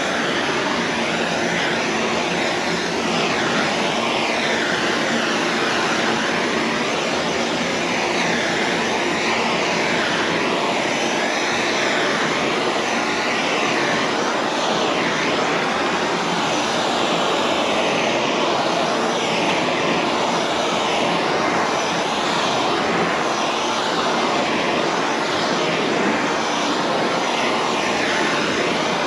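Handheld heat gun blowing hot air in a steady rush, its sound wavering as it is swept back and forth over wrinkled wrap vinyl to shrink the film back to its original shape.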